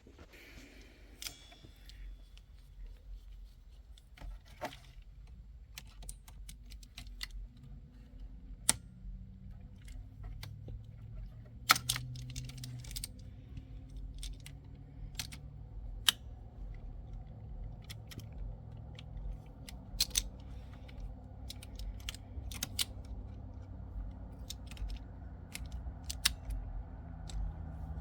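Irregular metallic clicks and clinks of hand tools and metal parts handled during car battery work, over a low steady rumble.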